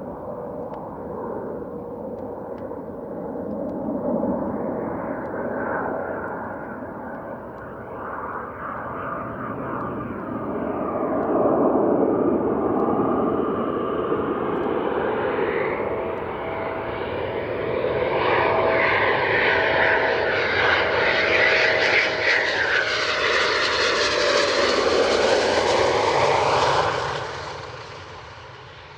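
Eurofighter Typhoon's twin jet engines running with a steady whine. The sound grows louder and brighter for over twenty seconds, then falls away quickly near the end.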